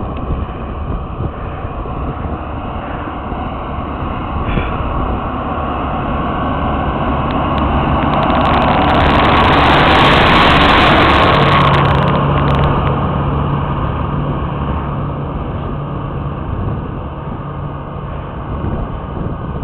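Renault tractor engine running steadily with a plough in tow, growing louder as it comes close about halfway through, then fading as it moves away.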